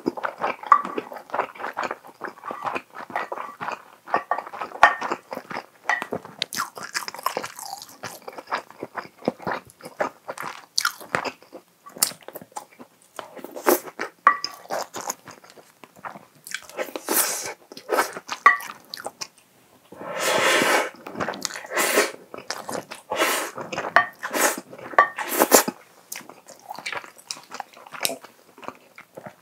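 Close-miked chewing and mouth sounds of a person eating a rice bowl of chicken and egg, with irregular clicks and a spoon scraping the plate now and then.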